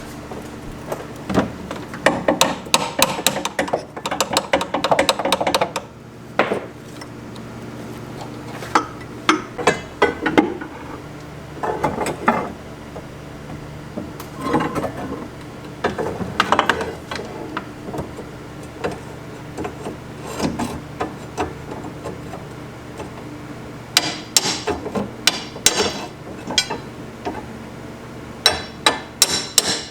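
Hammer blows knocking a stuck part out, in quick runs of sharp strikes with scattered single knocks between them.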